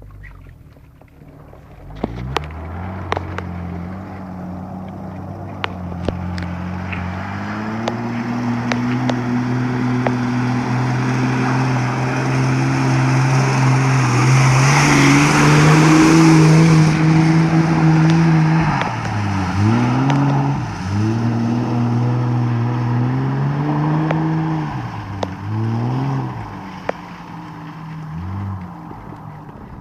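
Car engine revving hard during a drift on a wet surface, its pitch climbing in steps to a loud peak with a rush of tyres spraying water. The revs then drop sharply and pick up again several times before the car fades away near the end.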